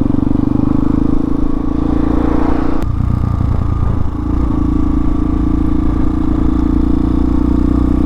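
Hawk 250 single-cylinder dual-sport motorcycle engine running steadily under way. A sharp click about three seconds in, after which the engine note briefly changes before settling.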